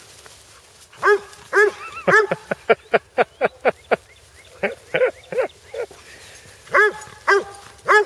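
A dog barking repeatedly: a few single barks, then a fast run of about five barks a second, then more evenly spaced barks in twos and threes.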